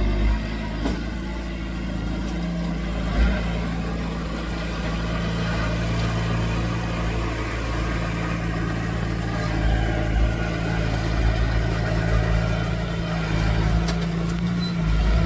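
Diesel engine of heavy earthmoving machinery running steadily under work, its pitch shifting slightly about halfway through and again near the end.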